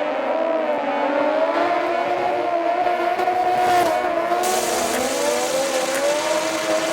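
Vehicle engine running at high revs, its pitch wavering up and down, with a hiss joining about two-thirds of the way in.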